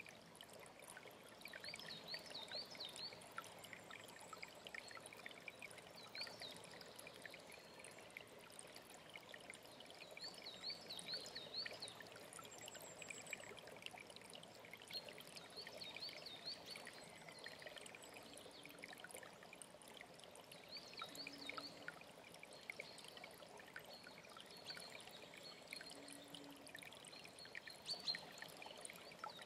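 Faint mountain stream running steadily, with a songbird's short warbling phrases repeating every few seconds over the water.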